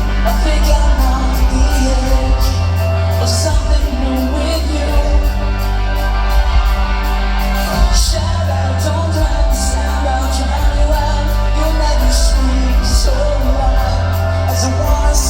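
Live rock band playing loudly in a large hall, recorded from the audience: heavy bass and drums with regular cymbal hits, and singing.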